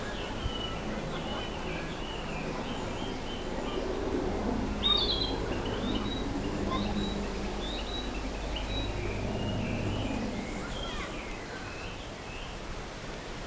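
Narcissus flycatcher singing: short whistled notes and phrases, the loudest phrase about five seconds in, over steady low background noise.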